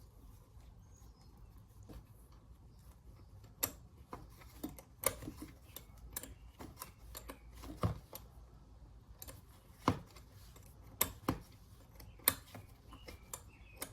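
Scattered, irregular sharp clicks and taps of hand tools and parts being worked inside a small single-cylinder engine block during reassembly.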